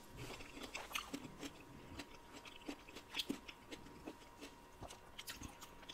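Faint, close-miked chewing of a spoonful of dragon fruit flesh: soft wet mouth sounds with scattered small clicks and smacks.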